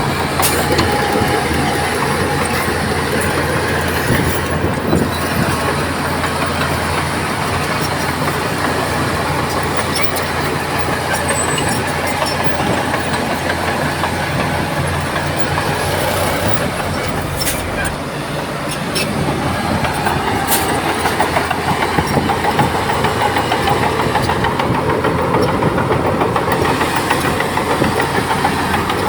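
Crawler bulldozer's diesel engine running steadily as the machine works, with a few sharp metallic clanks. The engine drops briefly about eighteen seconds in, then runs harder.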